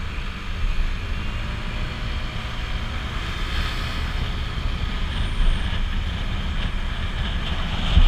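Riding sound on a Honda PCX scooter: steady wind rush over the helmet microphone, with engine and road noise rumbling underneath.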